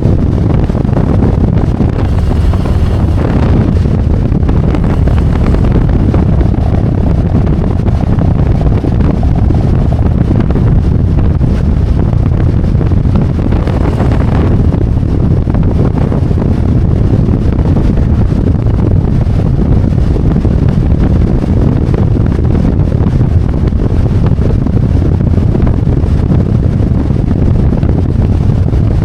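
Harley-Davidson Road Glide's V-twin engine running at cruising speed, under heavy wind noise buffeting the microphone.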